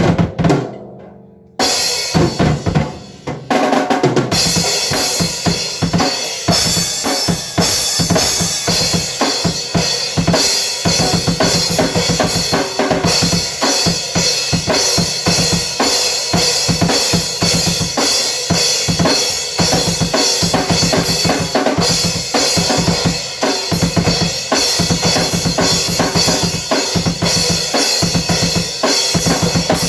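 Drum kit being played: a few separate hits, then from about four seconds in a fast, continuous pattern of drum strikes under a steady cymbal wash.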